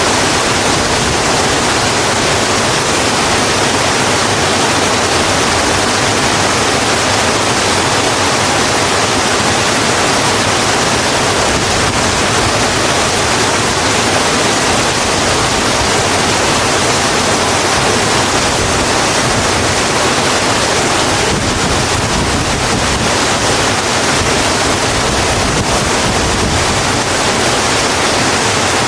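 Steady, heavy rain falling on a road, an even dense hiss with no distinct drops or other sounds.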